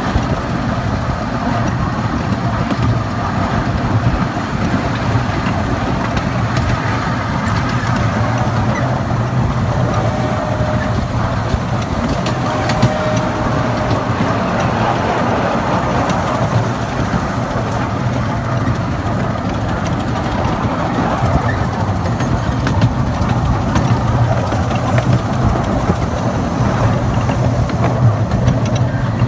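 Little Puffer, a small 1905 steam train, running on its track, heard from the rear passenger car: a steady rumble and clatter of the cars rolling on the rails.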